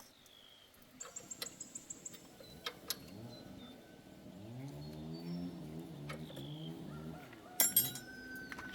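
Small birds chirping, with one low, drawn-out pitched call a little past the middle and a few sharp clicks or taps.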